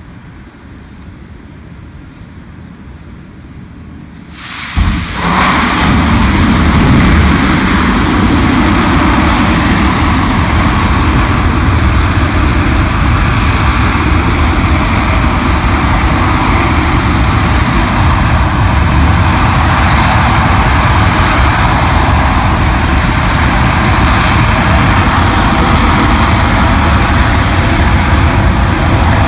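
RS-25 liquid-hydrogen rocket engine igniting on the test stand about four and a half seconds in, with a sharp crack, then running at a steady, very loud level with a deep rumble.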